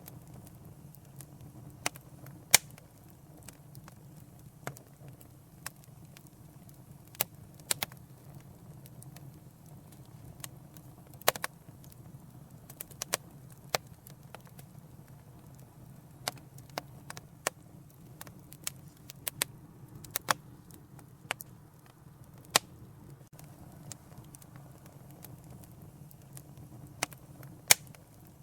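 Wood fire crackling: irregular sharp pops and snaps over a steady low rumble of burning, with a few louder pops.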